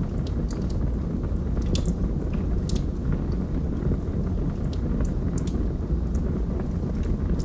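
Wood logs burning in a fireplace: a steady low rumble of the flames with frequent sharp crackles and pops from the wood.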